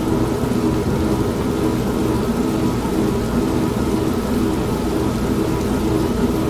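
An old manual washing machine running with a steady mechanical hum, mixed with constant heavy rain and a low rumble of thunder.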